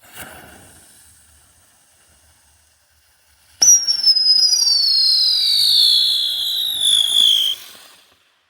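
Small UFO spinner firework: the lit fuse fizzes briefly, then about three and a half seconds in a loud whistle starts suddenly. The whistle slides steadily down in pitch for about four seconds and then cuts off.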